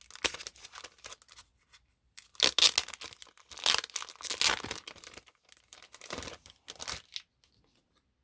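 Packaging being torn open and crinkled in a run of irregular scratchy surges, loudest in the middle and stopping about a second before the end: a card calendar being unwrapped by hand.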